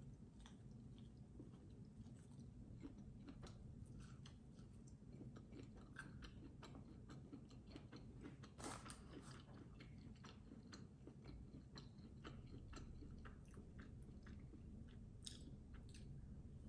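Faint close-up chewing and biting of fried corn on the cob, with soft irregular crunches and clicks. One sharper crunch comes about halfway through.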